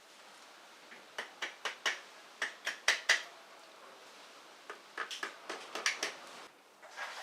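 Quick sharp metallic clicks and clinks of hand tools and engine parts being handled during removal of a motorcycle engine's cylinder barrel. They come in two flurries, one about a second in and one around five seconds in, with a last clink near the end.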